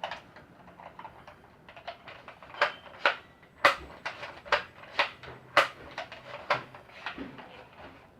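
A string of sharp plastic clicks and clacks, about two a second and unevenly spaced, from a toy water gun being handled.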